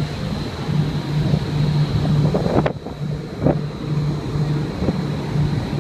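Wind buffeting the microphone on the open deck of a cruise ship under way, with irregular gusts over a low hum that comes and goes.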